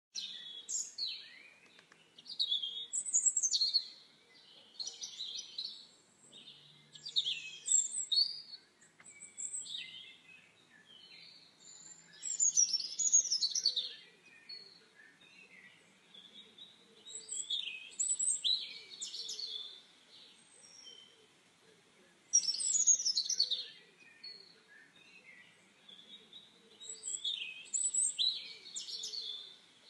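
Birds singing: short phrases of high chirps and trills come again every few seconds, with quieter gaps between.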